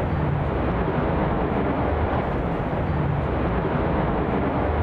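Jet noise from an F-35A fighter's single afterburning turbofan on a high-speed low pass, heard as a steady, loud rushing rumble.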